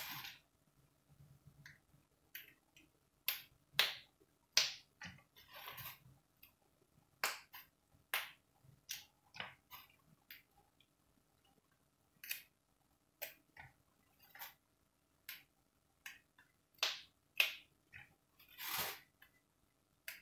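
Fresh green beans being snapped by hand into short pieces: sharp, crisp snaps at irregular intervals, roughly one a second.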